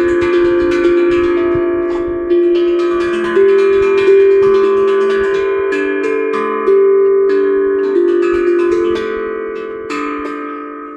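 Steel tongue drum (glucophone) played slowly. Single notes are struck about once a second and left to ring, overlapping into a gentle melody. The last notes die away and the sound fades out at the end.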